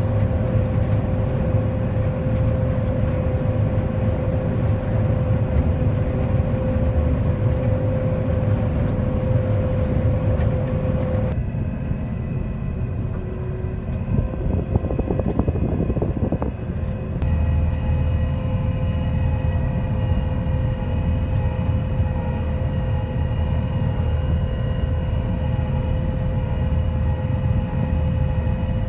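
Combine harvester running steadily while harvesting soybeans on its first pass: a heavy low drone with a constant whine over it. The sound shifts abruptly about eleven seconds in and again about seventeen seconds in.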